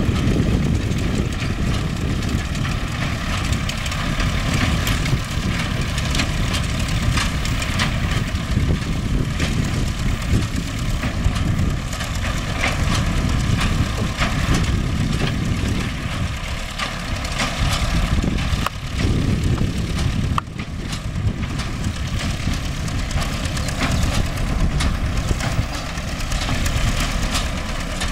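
MTZ-5LS tractor's diesel engine running steadily while driving a hay baler, with a steady whine and frequent short clacks and knocks from the working machinery.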